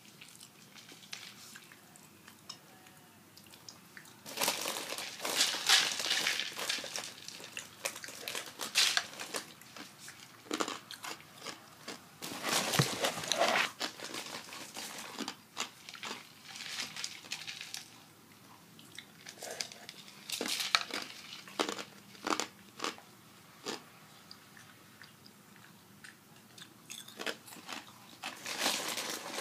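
A person crunching and chewing a crisp snack close to the microphone, in irregular clusters of sharp crackly bites with short pauses between them, starting about four seconds in.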